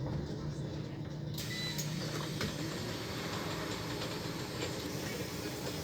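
Scania CL94UB city bus's diesel engine running with a steady low hum, with a few light clicks.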